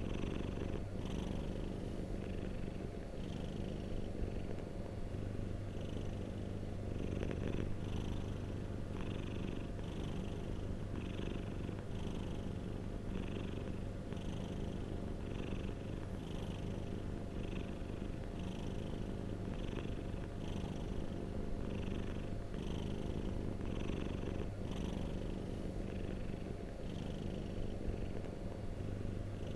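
Domestic cat purring close up, a steady low rumble that swells in a soft rhythm about once a second with its breathing.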